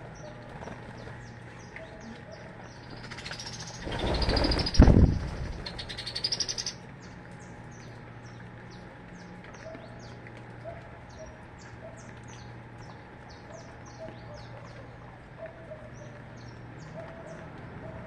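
Small birds chirping in short high notes throughout, with a loud burst of wing flapping and a sharp knock about four to six seconds in. Soft repeated low cooing notes come in during the second half.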